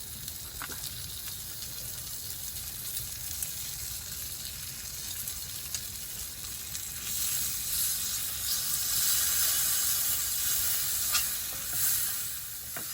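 Chicken frying in oil in a cast iron pan on a campfire: a steady sizzle that grows louder in the second half.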